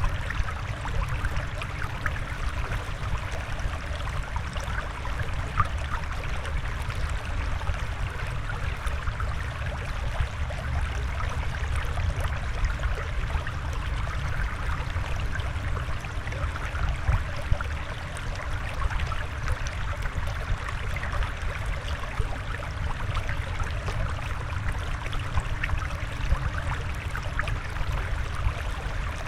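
Water flowing and trickling steadily.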